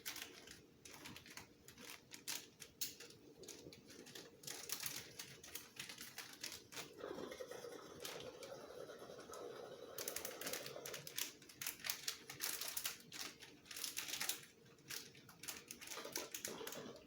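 Irregular, rapid clicking and clattering of small hard plastic items being handled, with a stretch of rustling about seven to eleven seconds in.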